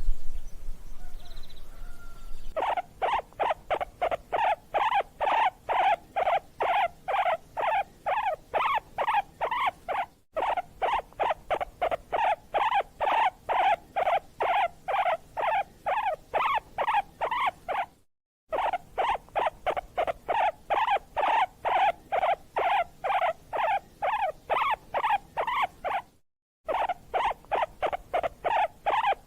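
An animal's short squeaking calls, repeated fast and evenly at about three a second, starting a few seconds in and broken by three brief silent gaps.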